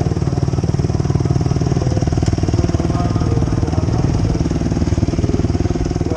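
Motocross motorcycle engine running steadily with a fast, even beat.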